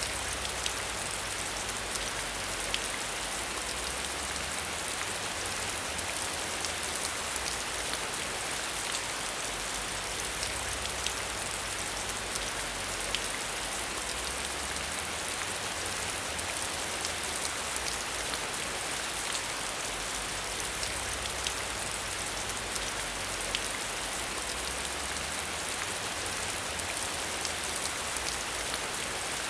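Steady rain, with many separate drops ticking sharply against a surface over a low rumble.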